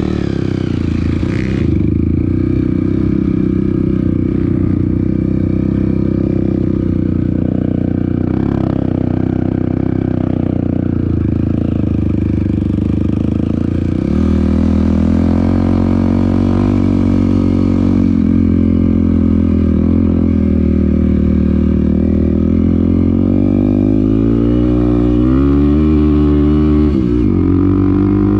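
Off-road motorcycle engine running while riding, steady at first, then rising and falling in pitch with the throttle from about halfway through, with a sharp drop and pick-up near the end.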